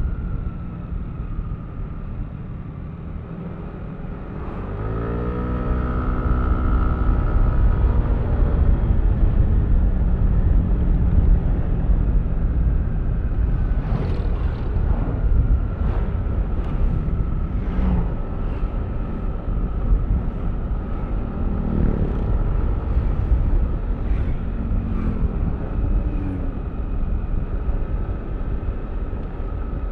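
Yamaha Aerox V3 scooter's single-cylinder engine running on the move with a steady rumble; about five seconds in it rises in pitch and gets louder as the scooter accelerates, then holds steady. A run of sharp clicks or knocks comes in the middle, and short pitched rises of the engine come again near the end.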